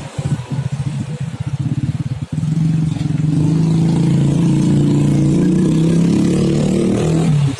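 Engine of a road vehicle running close by in busy traffic: uneven at first, then a steady, loud run from about two seconds in that drops away just before the end.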